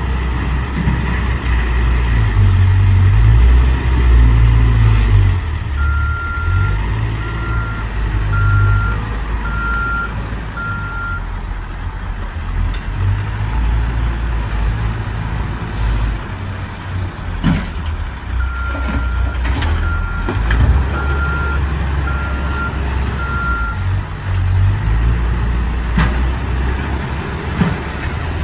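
Caterpillar 416 backhoe loader's diesel engine running and working under load, rising and falling in level, with a reversing alarm beeping in two runs of about five beeps, roughly one a second, while the machine backs up. A few short metallic knocks come in the second half.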